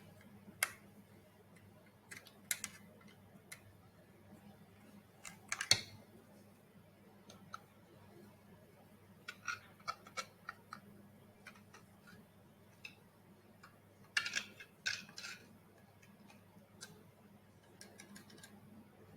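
Irregular small clicks and taps of robot parts and screws being handled during assembly, with a sharper knock about six seconds in and a quick cluster of clicks near the end, over a faint steady hum.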